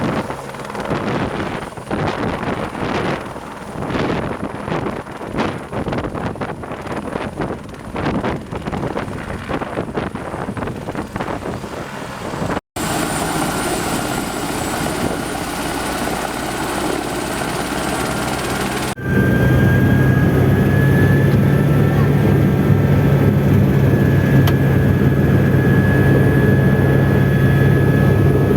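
Helibras Esquilo helicopter's turbine and rotor running, heard in three edited segments. First comes an uneven, gusting pulse. After a brief cut there is a steadier whine. From about two-thirds in, a louder, steady low drone with a high turbine whine on top.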